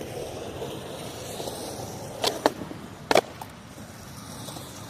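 Skateboard wheels rolling on pavement, with three sharp clacks of the board on the ground: two close together a little after two seconds in and one about three seconds in.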